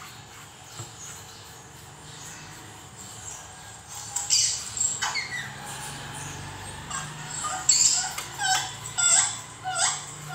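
Birds calling in the background: a run of short, sharp calls that glide up and down, starting about four seconds in and coming faster and louder toward the end, over a faint steady low hum.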